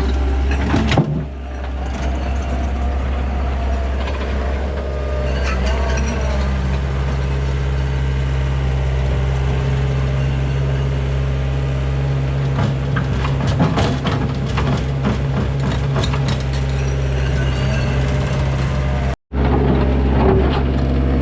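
Heavy diesel engine running steadily with a low hum, its pitch holding even, with scattered clanks and knocks around the middle.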